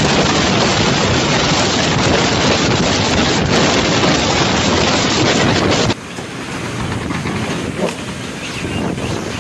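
Loud, steady rushing noise of storm weather in field footage. About six seconds in it cuts abruptly to a quieter clip of similar rushing.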